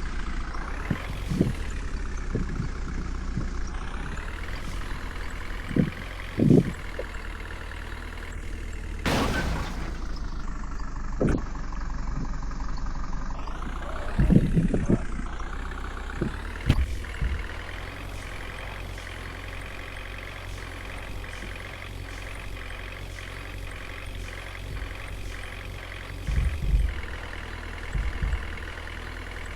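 Water tanker truck's engine running as it drives, its pitch rising and falling several times in the first half as it speeds up and changes gear, then holding steadier. Scattered low thumps and one sharp burst about nine seconds in.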